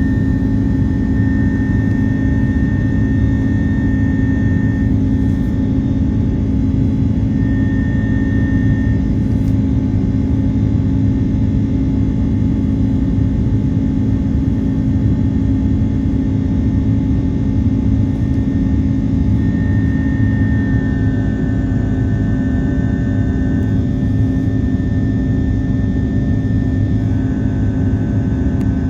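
Airbus A330-300 airliner cabin noise in flight: a steady, loud rumble of the jet engines and airflow with a low hum. A faint high whine steps down slightly in pitch about two-thirds of the way through.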